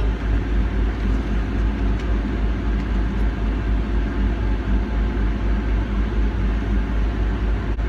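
Steady low rumble of a car heard from inside the cabin: engine and road noise, with no other distinct event.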